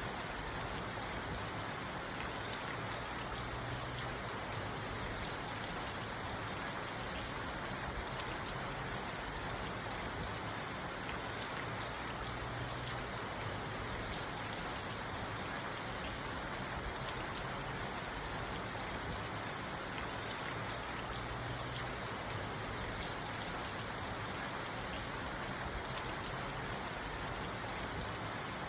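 Steady rain falling on a parked car, heard from inside the cabin, with scattered taps of single drops.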